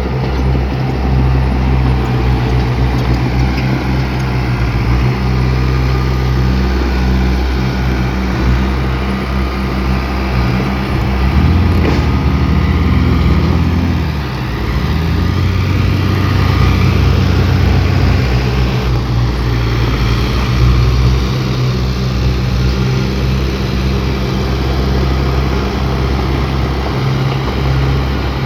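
Heavy diesel engine of earthmoving machinery running steadily, its note changing for several seconds about halfway through as engine speed or load shifts.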